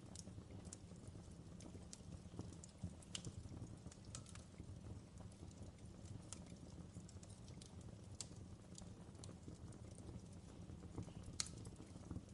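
Fireplace wood fire crackling quietly: irregular sharp pops and snaps over a low steady rumble.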